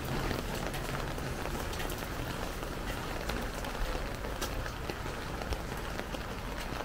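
Steady rain falling, a continuous hiss with many single drops ticking sharply through it, over a low rumble.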